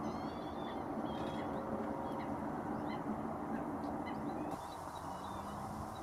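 Scattered short, high bird chirps and whistles over a steady low rumble with a faint hum.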